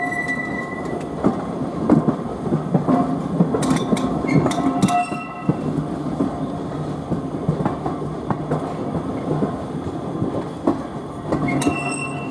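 Steam-hauled heritage passenger train, LMS Ivatt tank no. 41298, running along the line: a steady rumble with irregular clattering knocks of the wheels over the track, and a couple of brief high squeals.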